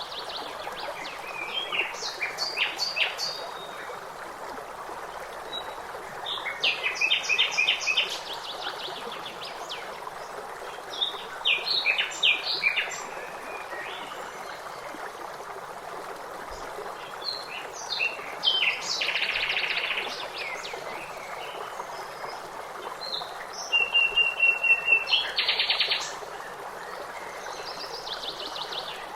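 Songbirds singing in short bursts of chirps and trills every few seconds over a steady rush of flowing water.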